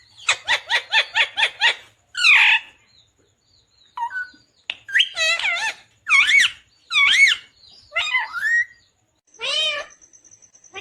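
Pet Indian ringneck parakeet calling: a rapid run of about eight short chattering calls in the first two seconds, then a string of separate warbling, wavering calls with short gaps between them.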